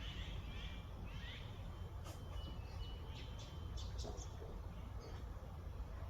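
Songbirds chirping and calling: short high whistles and a quick run of chips in the middle, over a steady low rumble.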